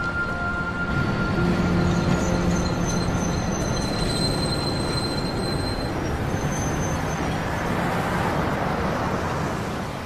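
Tram running along its rails: a steady rumble and hiss, with faint high wheel squeals in the middle.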